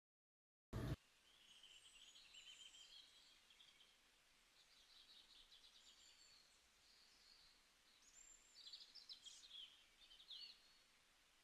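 Faint birdsong, several separate chirps and trills, over a low background hiss. It begins with a short, sharp click less than a second in, as the sound cuts in from silence.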